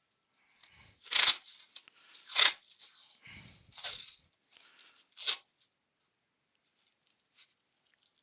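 Adhesive tape being pulled off a roll in short rasping strips, four strong pulls with fainter rustling between, then it stops about six seconds in.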